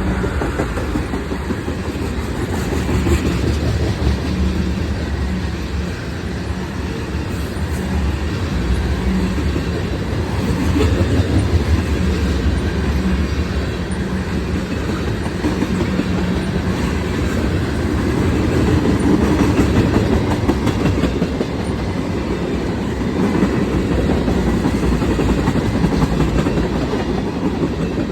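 Train cars rolling past at close range: a steady rumble with wheels clattering over the rail joints.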